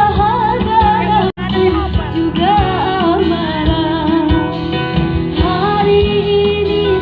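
Live gambus-pop band music: a female lead voice singing ornamented, wavering melody lines over plucked strings and a steady bass. The sound drops out for an instant about a second and a half in.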